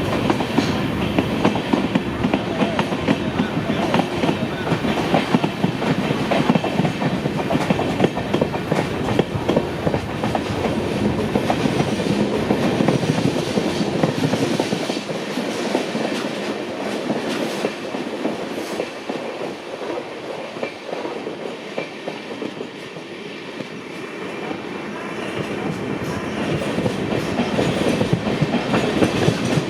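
Express train's coaches rolling over rail joints with a steady clickety-clack. It eases off somewhat in the middle and builds again near the end.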